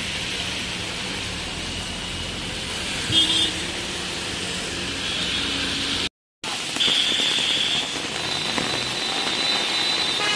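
Heavy rain falling on a wet street with cars driving through it: a steady hiss over the low hum of traffic. A short high beep sounds about three seconds in, and the sound drops out for a moment just after the middle.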